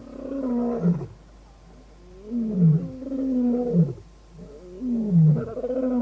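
Lion roaring: a series of long, deep roars about every two seconds, each falling in pitch at its end.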